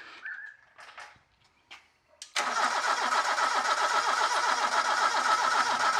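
Rebuilt Toyota 4A-GE engine being turned over by its starter for the first time, starting suddenly about two seconds in as a steady, evenly pulsing cranking sound, after a few faint clicks.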